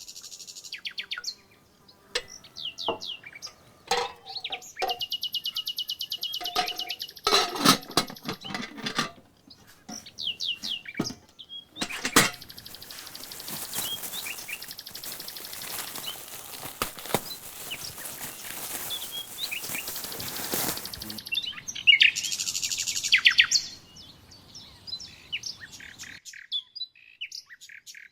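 Songbirds singing, with fast trilled phrases and chirps that recur throughout. A few knocks come in the first third, and in the middle a steady hiss with clicks runs for about nine seconds, then stops.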